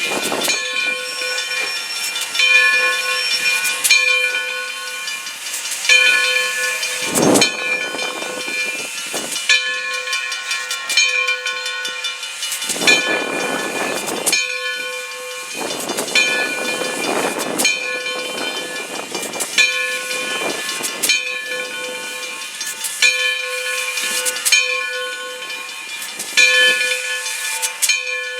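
Locomotive bell ringing, struck at a slow steady pace about every second and a half, with several bursts of hissing about seven, thirteen and sixteen seconds in.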